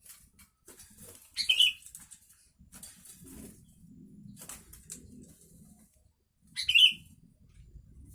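Sooty-headed bulbul giving two short, loud calls about five seconds apart. Faint rustling and ticking fill the time between them.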